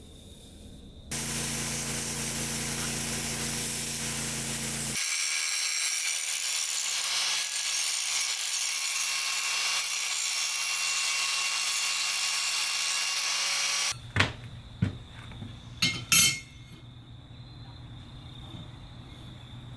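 A power tool running and working steel for about thirteen seconds, its sound changing partway through, then cutting off suddenly, followed by a few sharp metallic knocks.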